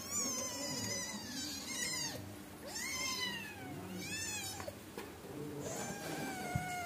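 Angora cats mewing: about five high-pitched calls in a row, each rising and then falling in pitch.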